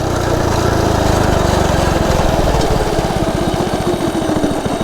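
Coleman CT100U minibike's small single-cylinder four-stroke engine running hard under way. The engine has its governor removed and its carburetor jet drilled out.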